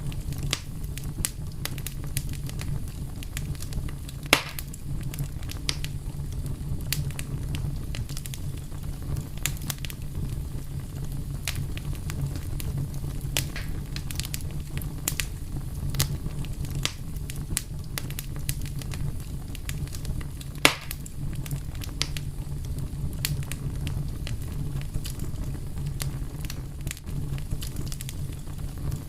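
Fire crackling, with many small snaps over a steady low rumble and two louder pops, about four seconds in and again about twenty seconds in.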